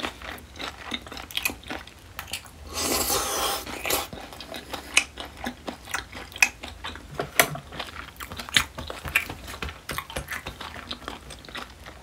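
Close-miked chewing of a full mouthful of food, with many short wet clicks and smacks of the mouth. About three seconds in there is a louder noise lasting about a second.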